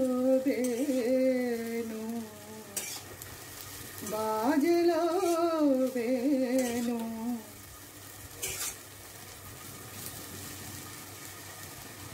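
Sliced potatoes sizzling as they fry in a steel kadhai, stirred with a metal spatula that scrapes and clicks against the pan a few times. A louder wavering pitched tone rises and falls twice: in the first two seconds, and again from about four to seven and a half seconds in.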